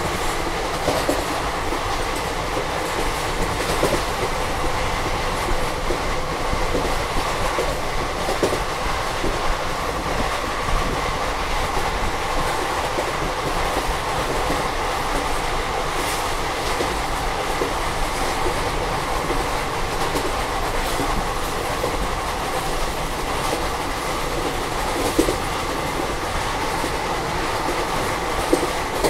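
Indian Railways passenger coach running at speed: a steady rush and rumble of wheels on rail, with occasional clicks and knocks from the track.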